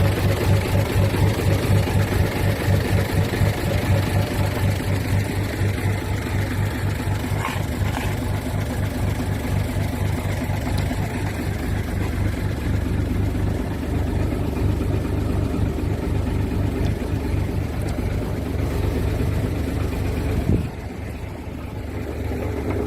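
Mitsubishi Fuso Fighter truck's diesel engine idling steadily with a low, even pulse; the sound drops abruptly to a quieter level near the end.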